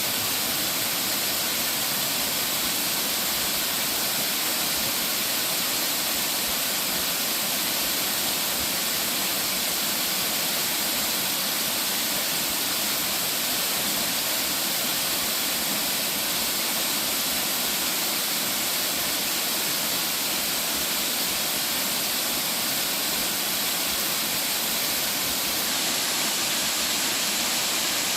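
A 120-foot double waterfall rushing in a steady roar of falling water, unchanging throughout.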